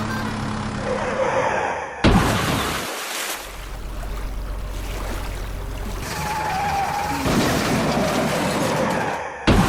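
Cartoon vehicle sound effects: a sudden crash about two seconds in and another just before the end, with rumbling, rushing noise between them.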